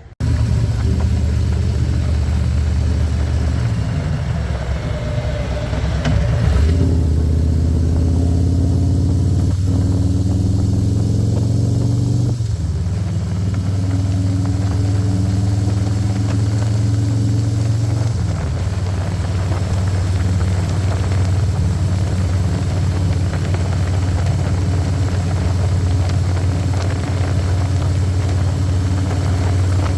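Harley-Davidson Electra Glide's Milwaukee-Eight V-twin engine running under way with wind rush. Its note dips and climbs again three times, about six seconds apart, as the bike shifts through the gears.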